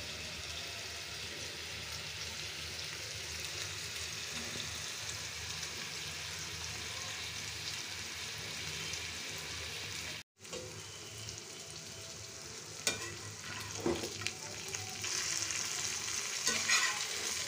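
Masala-coated prawns sizzling in groundnut oil on a concave iron dosa tawa, a steady frying hiss. It breaks off briefly about ten seconds in, then comes back with a few sharp clicks of a spatula against the tawa, and the sizzle grows louder near the end.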